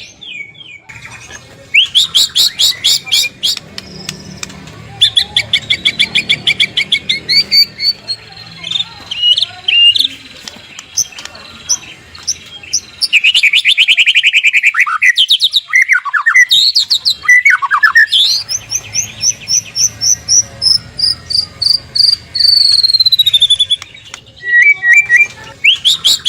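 White-rumped shama singing a long, varied song: fast rattling runs of repeated notes, swooping whistles, and a long slurred whistle that falls near the end.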